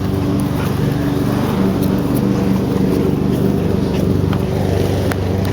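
Petrol lawn mower engine running steadily, with a couple of faint clicks near the end.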